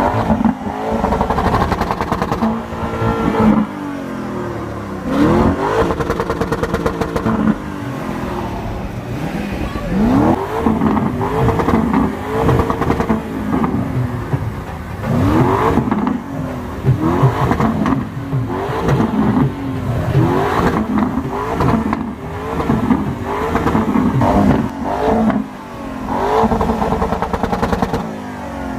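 Lamborghini engines revving hard over and over, the pitch sweeping sharply up with each rev and falling back, with crackling between the revs.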